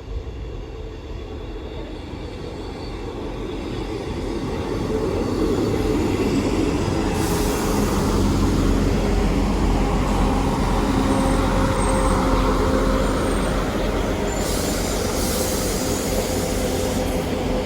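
Two coupled Class 158 diesel multiple units pulling into the platform, their diesel engine and wheel noise building over the first several seconds and then holding steady and loud, with brief high hissing or squealing sounds in the middle and near the end.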